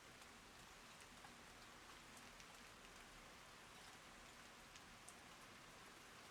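Faint, steady rain falling, with scattered individual drops ticking sharply.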